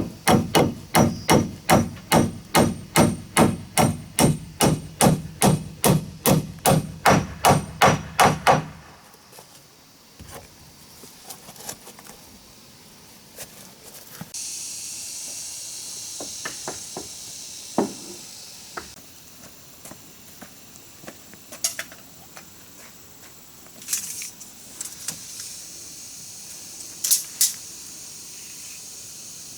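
Hammer blows struck steadily, about three a second, stopping about nine seconds in. Scattered lighter knocks follow, with a few seconds of hiss midway.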